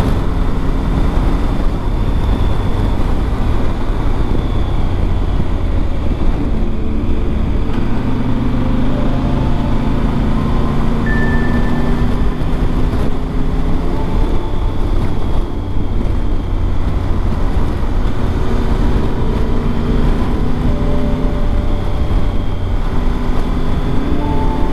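Triumph Tiger 1200 GT Pro's three-cylinder engine running under way with a steady rush of wind, its pitch slowly rising and falling as the revs change.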